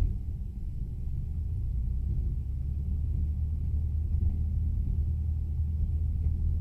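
Cessna 150's Continental O-200 engine and propeller running as a steady low drone, with a brief thump right at the start; it grows slightly louder after a couple of seconds.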